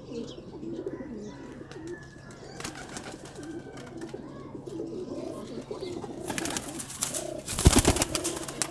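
Domestic pigeons cooing steadily, a low warbling chorus. A loud rustling burst comes near the end.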